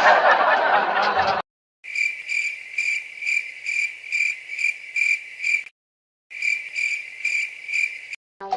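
Cricket chirping: a high, even chirp repeating about three times a second, in two stretches separated by abrupt cuts to dead silence, the way an added sound effect is cut in. Before it, a second or so of dense noise from the previous scene stops suddenly.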